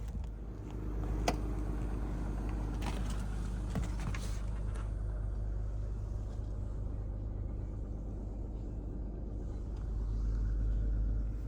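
2005 Land Rover Freelander engine idling steadily while still warming up after a cold start, with a few light clicks or knocks in the first few seconds.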